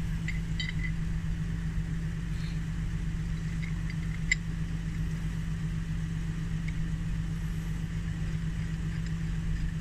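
Vehicle engine idling steadily, with a single sharp metal clink about four seconds in as the winch hook and shackle are fitted to a tow strap.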